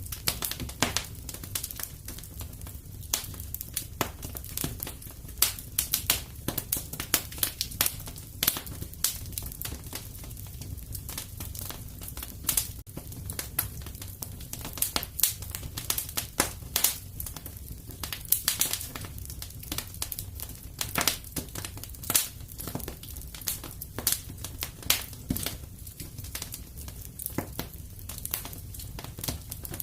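Fire crackling in a fireplace: a dense, irregular run of sharp pops and crackles over a low steady rumble.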